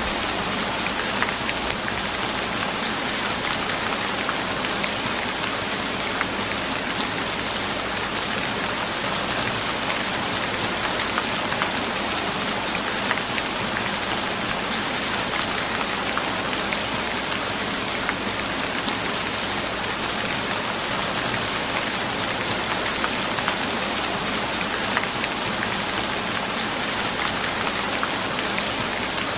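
Steady rain falling on a surface, a constant hiss dotted with many small drop ticks.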